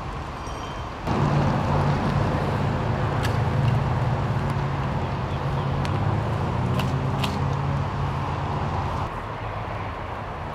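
A large vehicle engine running close by, a steady low hum that comes in abruptly about a second in and drops back near the end, with a few brief sharp clicks in between.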